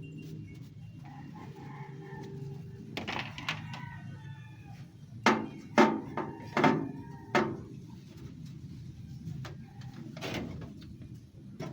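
A drawn-out animal call with a falling pitch about three seconds in, then a few loud, sharp knocks between about five and seven and a half seconds in.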